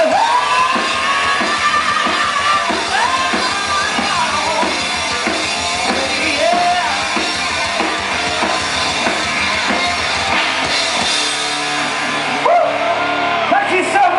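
Rock band playing live: drum kit and electric guitar, with long, gliding melody lines above a dense, steady wash of sound.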